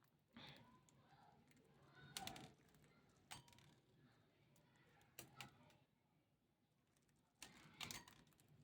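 Near silence with a few faint, scattered light clicks and taps, in about five small clusters.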